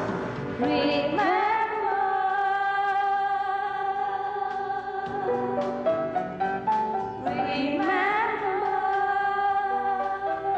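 A slow song: a singer holds long notes over instrumental accompaniment, with two phrases that each open with a rising swoop, about a second in and again near seven seconds.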